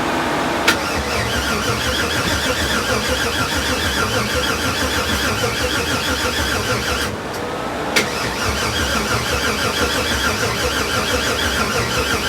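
Starter cranking a 6.0-litre LS V8 that does not catch. A click starts each of two cranking runs: one of about six seconds, then after a short pause a second one. The owner puts the failure to start down to a low battery.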